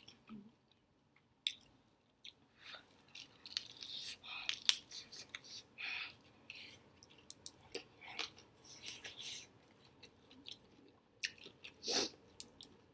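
A person chewing a fried chicken hot wing, with many short mouth clicks and smacks.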